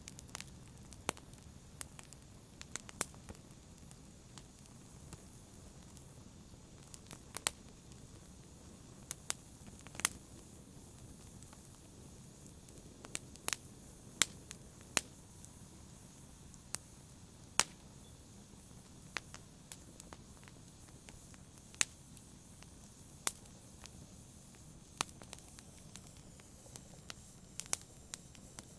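Wood fire burning, with irregular sharp pops and crackles every second or two over a low steady hiss.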